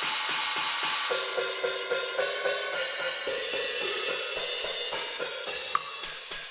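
NUX DM8 electronic drum kit's cymbal sounds: a dense, ringing wash of cymbal and hi-hat strokes played in a steady rhythm, with light drum hits underneath.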